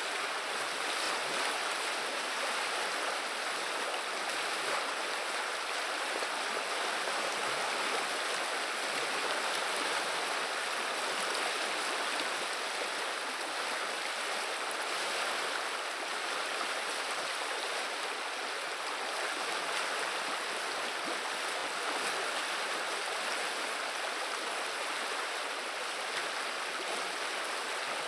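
Steady rushing and babbling of a flowing river, even and unbroken.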